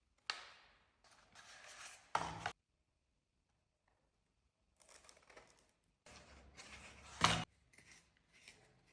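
Unboxing packaging being handled: short bursts of rustling and scraping. A sharper knock comes about two seconds in, and a louder one a little after seven seconds.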